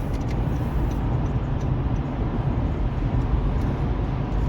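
Steady road and engine noise of a car driving, heard from inside the cabin: a constant low rumble.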